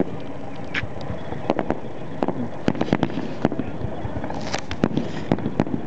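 Aerial fireworks going off in a rapid, irregular string of sharp bangs and cracks, about a dozen reports in a few seconds, with a couple of short hissing crackles among them.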